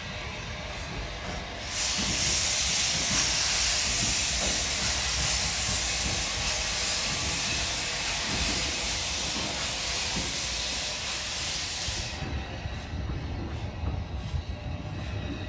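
Steam locomotive letting off steam: a loud, steady hiss that starts suddenly about two seconds in and cuts off abruptly about ten seconds later, over a low rumble.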